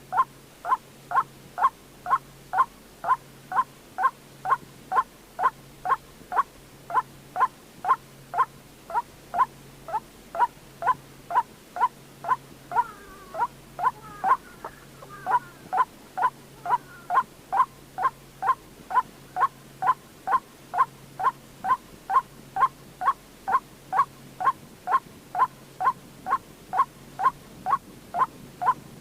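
White-breasted waterhen calling: a single short note repeated evenly, a little more than twice a second. Between about 13 and 16 seconds in it breaks into a more tangled, overlapping call. It is a recording of the call meant to be played as a lure for trapping.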